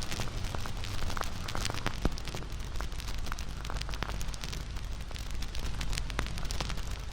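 Wood campfire burning, with steady crackling, irregular sharp pops of burning wood and a low rumble of the flames.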